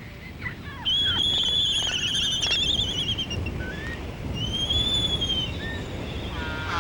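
Laysan albatross chick begging to be fed: high, wavering whistling calls, two long ones with a few short chirps between and a harsher, many-toned call near the end, over a steady low background rush.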